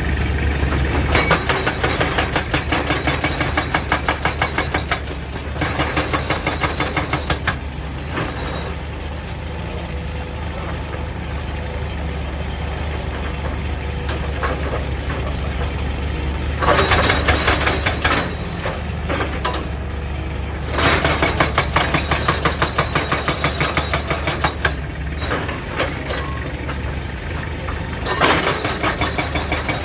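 Excavator-mounted hydraulic rock breaker hammering rock in five bursts of a few seconds each, at a rapid, even rate of several blows a second. The excavator's engine runs steadily underneath.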